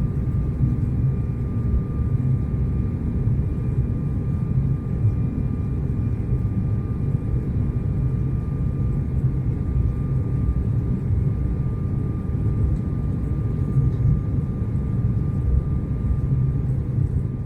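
Passenger jet airliner's engines running with a steady low roar and a faint, steady high whine above it.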